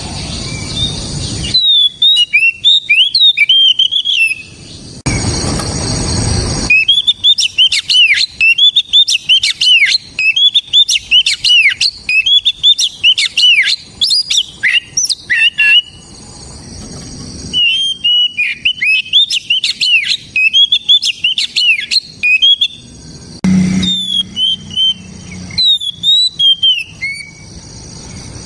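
Oriental magpie-robin (kacer) singing loudly, fast runs of varied, sharp whistled notes in several long phrases broken by short pauses. A loud rushing noise fills the pause near the start and another at about five seconds in.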